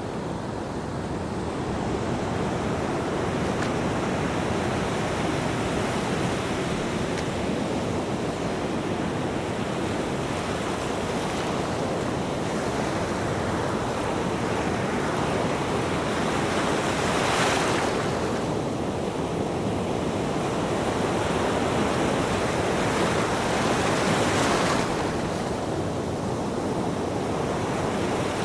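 Ocean waves breaking on a beach: a steady wash of surf, with two louder breakers, one a little past halfway and one near the end.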